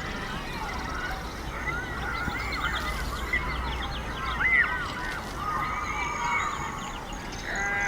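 Many birds calling at once, a busy chorus of short overlapping calls, over a steady low rumble.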